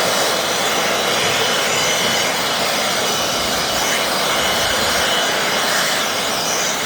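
Milwaukee cordless compact leaf blower running steadily at full blast, blowing light snow off a flatbed tow truck's deck around the chain.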